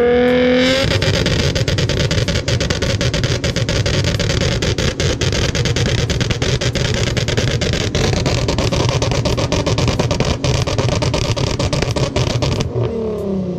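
Car engine revved up and held on a two-step launch limiter for about twelve seconds, the exhaust crackling and popping rapidly. Near the end the revs drop away.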